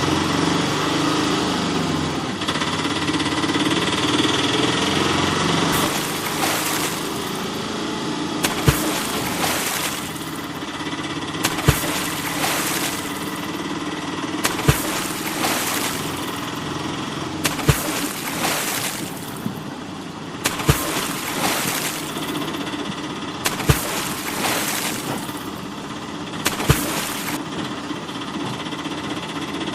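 Toy tractor running with a steady mechanical hum, with a sharp click about every three seconds, each followed by a brief hiss.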